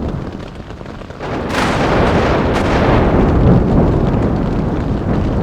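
Very close lightning strike: a sudden, so-loud thunderclap crack about a second and a half in, a second crack a second later, then heavy rumbling thunder, over steady rain.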